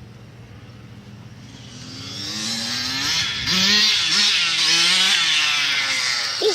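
Small dirt bike engine coming closer and revving. It is faint at first, then grows loud about two seconds in, its pitch climbing and shifting as it rides close by.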